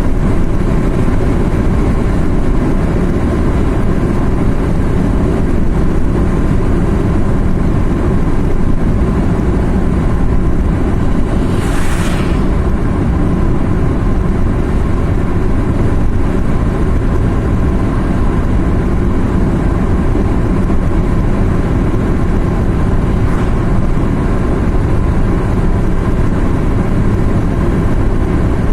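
Steady engine and road noise of a car driving, heavy in the low end, with one brief hiss about twelve seconds in.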